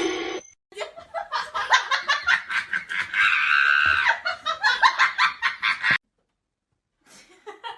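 A person laughing in quick, repeated bursts, rising to a higher stretch midway. The laughter cuts off suddenly.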